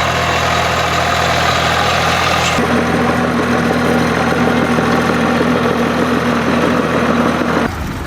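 Volvo BM farm tractors' diesel engines running steadily, the engine sound changing abruptly about two and a half seconds in and again near the end.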